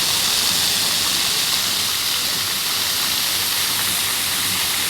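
Steady rush of falling water, an even hiss with no change in level.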